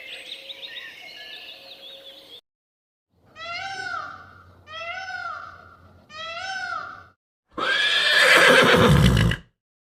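Bird chirps at first; after a short pause, a horse whinnies three times in near-identical calls about a second apart, then gives a louder, harsher call near the end.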